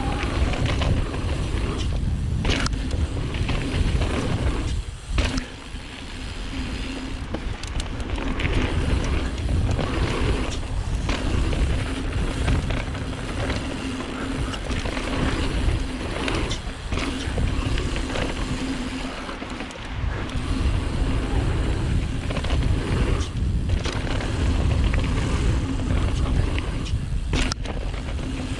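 Mountain bike riding down a dirt singletrack trail. Wind rumbles on the camera microphone over continuous tyre noise, with scattered knocks and rattles as the bike hits bumps.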